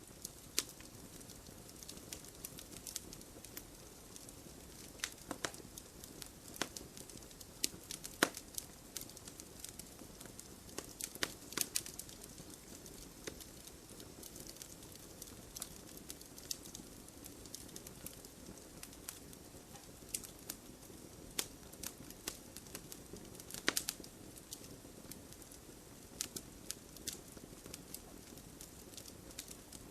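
Wood fire burning in a fireplace: a soft steady hiss of flames under irregular crackles, with several louder pops from the burning logs.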